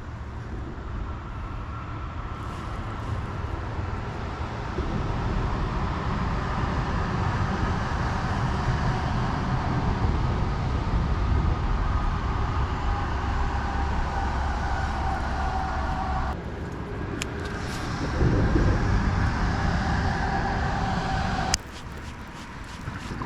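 Electric trolling motor running with a steady low rumble and a faint whine, cutting off abruptly near the end, with a few sharp clicks shortly before.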